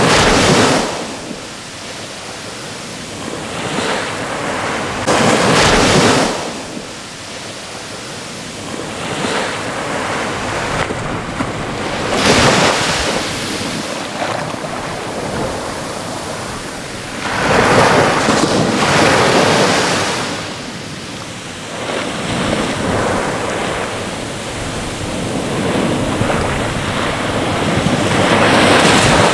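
Ocean waves breaking and washing in, each wave a loud rushing hiss that swells and fades, about six in turn, with a steady wash of surf between them.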